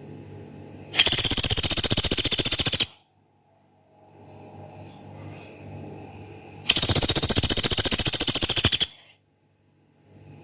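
Pelatuk beras, a small pygmy woodpecker, giving two long rapid rattling call trills, each about two seconds, with a steady faint hiss and low hum between them.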